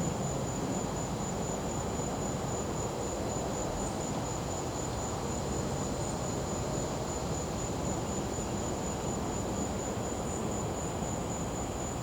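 Crickets trilling in a steady, fast-pulsing high chirr over a continuous low engine hum from a gas-powered generator.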